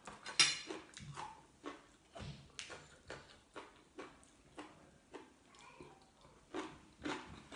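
A person chewing crunchy food close to the microphone, boiled pork ear cartilage and raw vegetables: a regular run of short wet crunches and smacks, about two a second, with a sharp loud crunch about half a second in.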